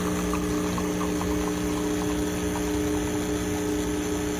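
Electric espresso machine's pump running steadily while a shot is pulled, a constant low mechanical hum.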